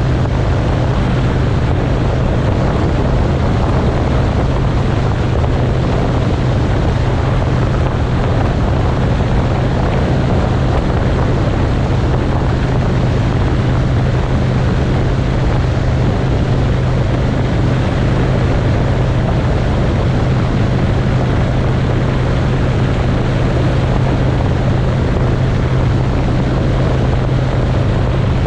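Motorcycle engine running at a steady cruising speed, a constant low drone, with wind rushing over the microphone.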